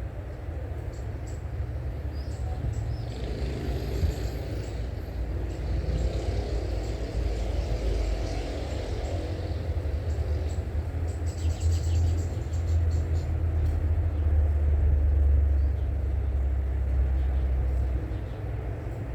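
Steady low rumble that swells about two-thirds of the way through and then eases, with faint bird chirps above it.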